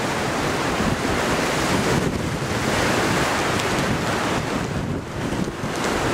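Storm wind buffeting the microphone over the steady wash of surf on the coast.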